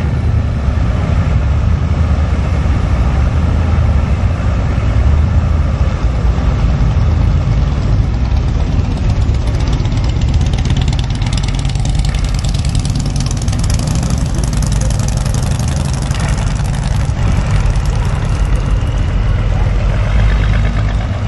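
A car engine running with a deep low rumble, brightening for a few seconds past the middle as if revved.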